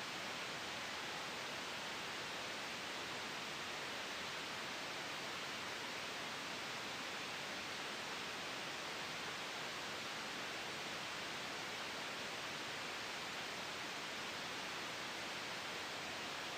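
Steady, unchanging hiss of soft white noise for sleep, an even wash of sound with no gusts, swells or breaks.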